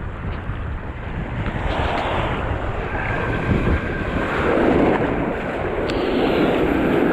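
Wind buffeting the microphone, with surf washing in the shallows.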